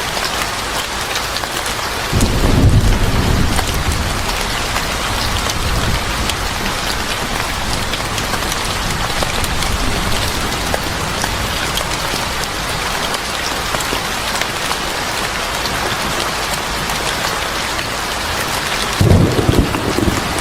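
Steady heavy rain with rolling thunder: a low rumble swells about two seconds in and dies away over a few seconds, and another rumble starts near the end.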